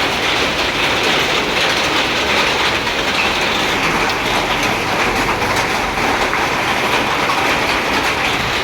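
Hailstones and heavy rain falling in a hailstorm, a dense, steady clatter of countless small impacts.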